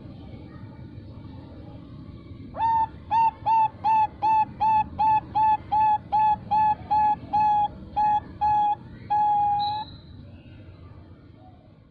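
Female Bangkok-bred zebra dove (perkutut) calling: a fast run of about fifteen short coos, roughly three a second, each with a quick rise at its start. The run ends on one longer held note.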